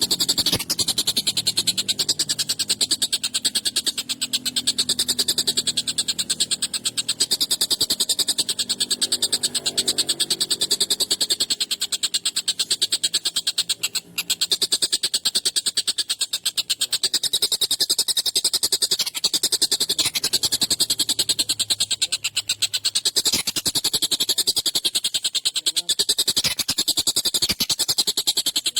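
Tengkek buto (stork-billed kingfisher) calling in a fast, harsh, continuous rattling chatter that breaks off briefly about halfway through.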